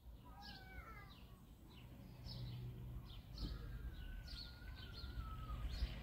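Small songbirds chirping: many short falling chirps mixed with a few gliding whistled notes, over a low outdoor rumble.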